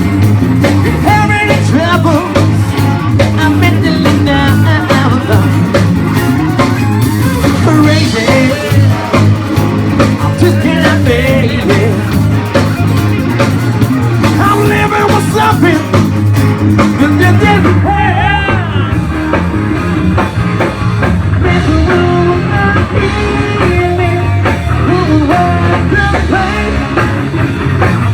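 Rock band playing live: electric guitar lead line with bends and vibrato over bass and drum kit, loud and unbroken.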